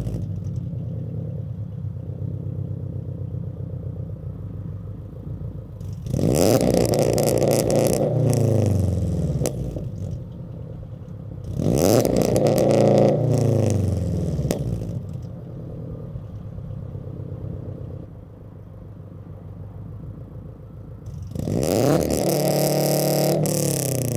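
2022 Subaru BRZ's 2.4-litre flat-four engine, running fully catless through Tomei unequal-length headers, a Berk front pipe and a Greddy RS exhaust, idling and revved three times. Each rev climbs sharply and then falls back to idle: about six seconds in, again about twelve seconds in, and near the end.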